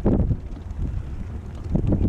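Wind buffeting the microphone in uneven gusts, a breeze of about 20 miles an hour, with a surge at the start and another near the end.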